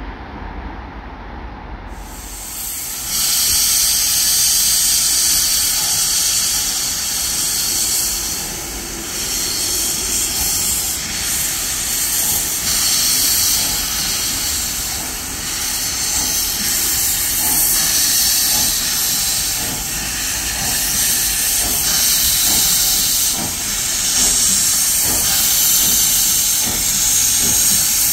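Steam locomotive hissing steam, a loud, steady hiss that starts suddenly about two seconds in and carries on with slight rises and falls.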